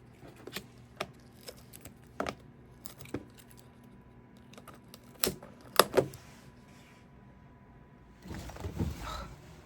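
Scattered light clicks and taps from handling craft supplies, the loudest a pair about five to six seconds in, followed near the end by a rustle of paper.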